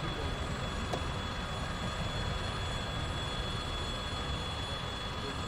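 Freight train wagons rolling past a level crossing, a steady rumble of wheels on rails, with a thin high ringing running through it that fits the crossing's electric warning bell.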